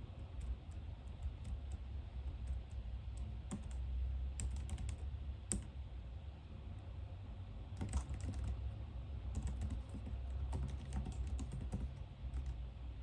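Typing on a computer keyboard in irregular bursts of key clicks, with one louder click about five seconds in, over a steady low hum.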